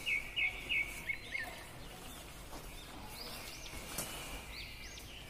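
Small birds chirping: a quick run of short repeated high chirps in the first second, then scattered rising-and-falling calls. A single sharp click comes about four seconds in.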